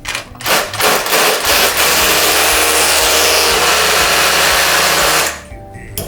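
A power tool running steadily for about five seconds, then stopping.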